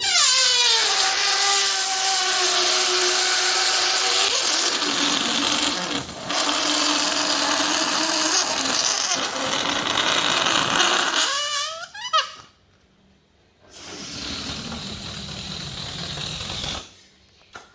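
Air rushing out of a stretched balloon neck in a loud hissing squeal. The pitch drops at the start and climbs near the end, and the sound runs about twelve seconds with a short break near the middle. After a brief pause a second, quieter release hisses for about three seconds.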